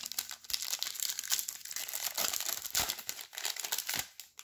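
Foil wrapper of a trading-card pack crinkling and being torn open, with a dense crackle that stops about four seconds in.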